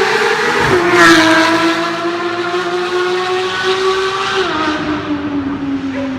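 Porsche 991 GT3's flat-six engine through an aftermarket Fi Exhaust, loud at high revs. Its pitch drops sharply twice, about a second in and again around four and a half seconds in, and holds steady or sags slightly in between.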